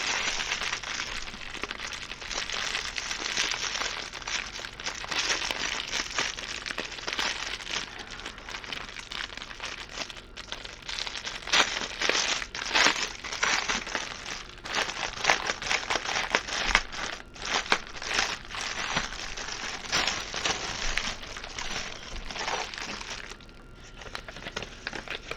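Plastic packaging crinkling and crackling as it is handled and opened, a steady run of fine crackles with sharper, louder ones midway, easing off near the end; the plastic wrapping around a diamond-painting kit's bags of drills.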